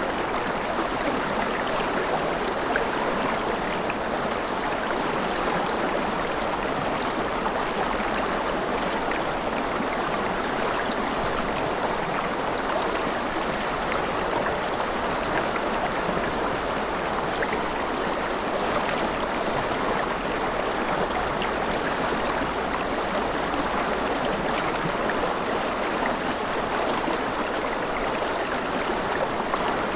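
River water splashing and gurgling around the listener, a steady, even rush with fine bubbling texture and no pauses.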